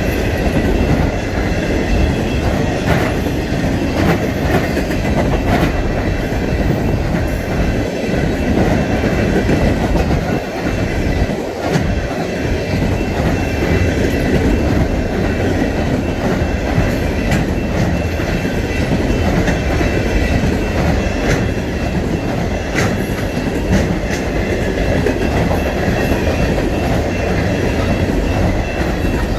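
Freight train cars rolling past at speed: a steady wheel-on-rail rumble with repeated clickety-clack over the rail joints and a faint, steady high wheel squeal.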